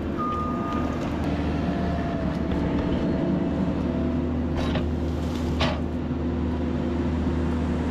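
Bergmann C912s tracked dump truck's diesel engine running steadily. About five seconds in there are two short, sharp creaks or knocks.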